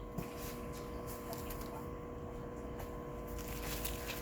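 Light rustling and small clicks of packaging and dry stick-insect specimens being handled, over a steady faint hum.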